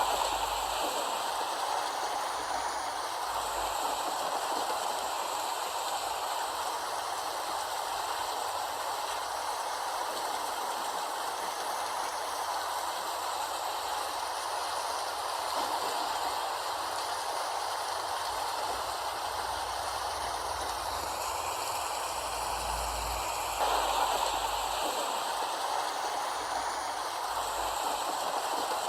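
Recorded rain: a steady, even hiss of falling rain, with a slight swell in level about five seconds before the end.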